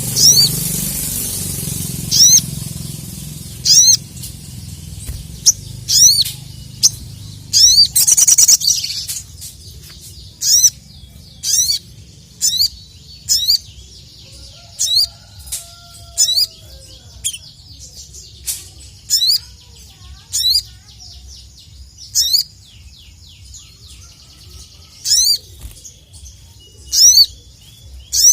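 Sogok ontong (sogon) sunbird calling: a long run of sharp, high, hooked chirps, about one a second and sometimes in quick pairs, the excited calling used to challenge a rival. A brief rustling burst comes about eight seconds in.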